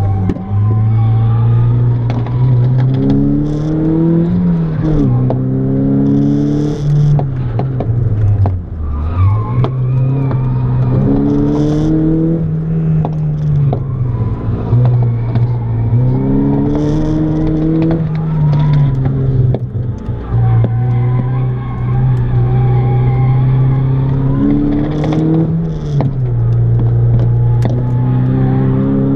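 Car engine heard from inside the cabin while driving hard on a track, its revs climbing and falling again and again, with a deep drop in revs about nine seconds in.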